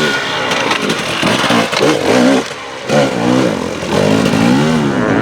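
Enduro motorcycle engines revving up and down in repeated quick throttle bursts, the pitch swinging rapidly rather than holding steady.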